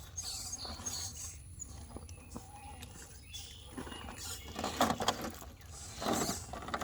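Scale RC rock crawler inching up a rock climb: irregular small scrapes, clicks and pattering of its tires and chassis on rock. There are louder scrabbling bursts near the end.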